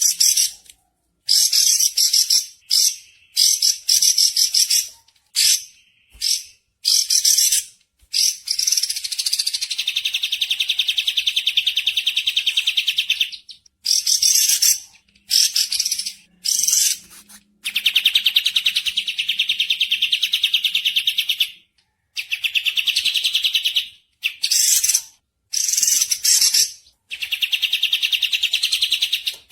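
Songbird singing in a rapid series of short, high-pitched chattering phrases broken by brief gaps, with several long fast trills lasting two to three seconds each.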